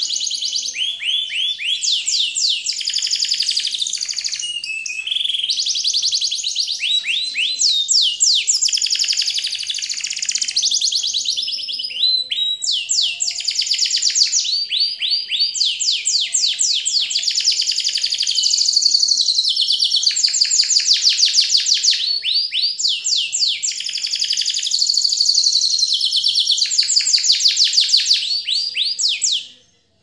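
Small birds chirping loudly and almost without pause: rapid runs of quick, high, sliding chirps in bursts of a few seconds, stopping abruptly near the end.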